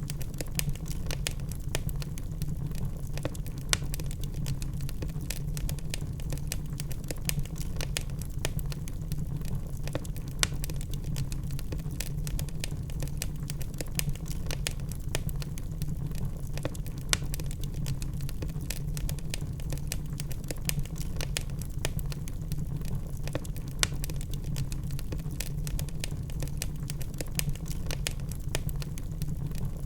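Wood fire burning in a fireplace: a steady low rumble of flames with irregular crackles and pops from the burning logs, a few sharper pops standing out.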